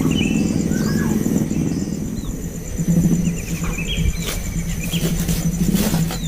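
Baby birds chirping in short, high calls, with a quick run of chirps about three seconds in. Underneath are a steady, high, pulsing drone and a louder low hum.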